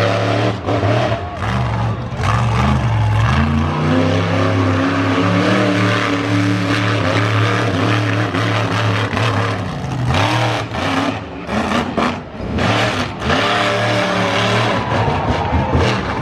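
Monster truck engine running loud and revving hard, its pitch climbing and falling again and again. From about ten to thirteen seconds in it turns rough and choppy, with brief drops in level.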